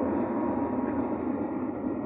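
Airbus A350 cabin noise during takeoff: a steady rush and rumble of the Rolls-Royce Trent XWB engines and airflow, with a faint steady whine over it.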